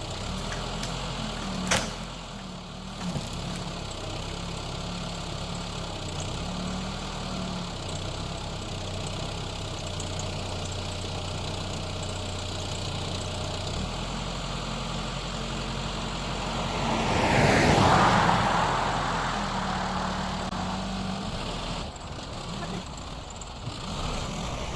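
An engine idling steadily, with a sharp click about two seconds in and a louder rush of noise that swells and fades a little over halfway through.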